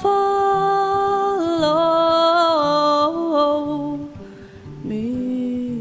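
Folk song: a woman sings long, held notes that step downward in pitch over plucked acoustic guitar. The notes fade about four seconds in, and a new held note begins about a second later.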